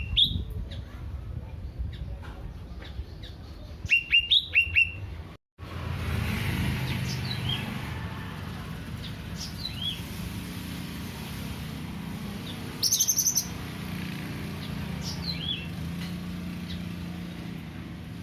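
Cucak ranting songbird chirping. About four seconds in there is a quick run of loud whistled chirps. After a momentary dropout come fainter, scattered, downward-sliding chirps, with a short high buzzy trill about halfway through.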